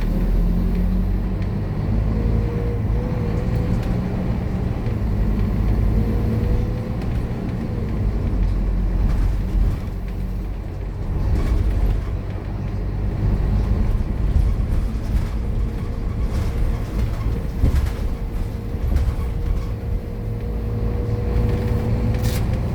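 Scania K230UB bus's five-cylinder diesel engine running on the move, heard from on board: a steady low rumble with a thin whine that comes and goes, and a few brief rattles.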